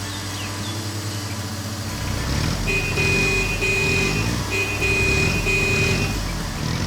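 Heavy construction vehicle engine hum as a cartoon sound effect. From about three seconds in, a run of high electronic beeps sounds on and off for a few seconds over the engine.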